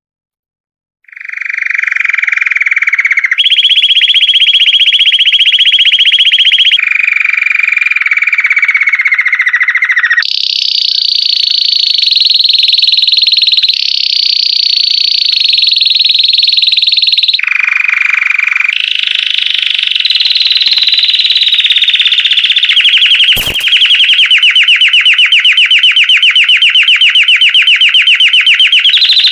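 Belgian song canary singing a long unbroken song of fast rolling trills, starting about a second in, each trill held for a few seconds before the bird switches to a new pitch. A single click sounds about two-thirds of the way through.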